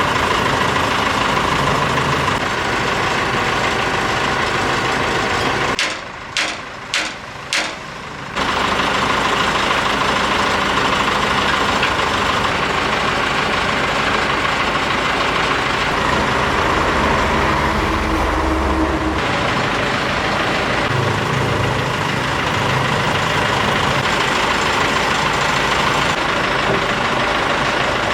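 Old excavator's heavy diesel engine running steadily. It drops away for about two seconds near six seconds in, with four short bursts, then carries on.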